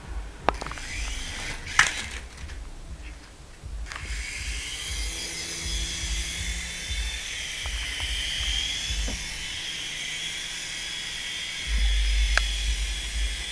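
Small toy helicopter's electric motor and rotor whirring with a high, slightly wavering whine that starts about four seconds in. A few sharp knocks come before it.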